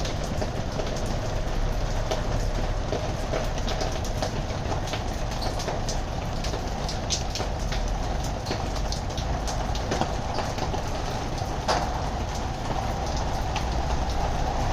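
A faulty metal roller shutter moving, its slats rattling with many small clicks over a steady mechanical whine.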